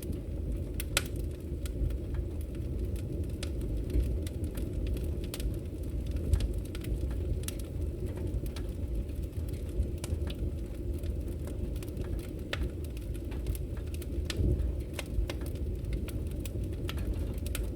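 Firewood burning: a steady low rumble of the fire with frequent, irregular sharp crackles and pops from the burning wood.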